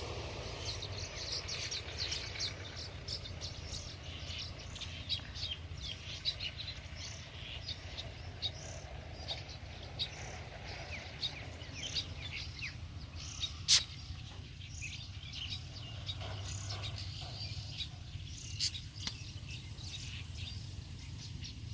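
Many short bird chirps and calls from several kinds of birds, over a steady low rumble of wind on the microphone. One sharp click stands out about two-thirds of the way through.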